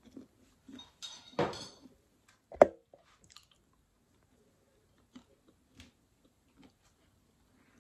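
A person chewing food, with small wet mouth clicks and smacks, and one sharp knock about two and a half seconds in.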